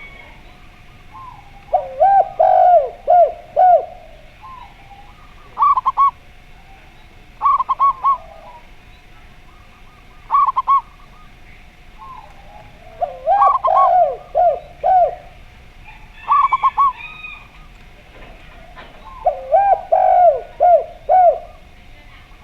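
Zebra dove (perkutut) and spotted dove (derkuku) cooing in turn: three longer, lower phrases of several coos each, with short, higher clusters of notes in between.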